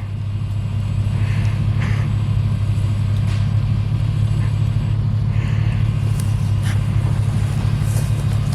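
Off-road 4x4 engine held at high revs under load, trying to power out of mud; it swells over the first second, then drones steadily, with a few faint clicks over it.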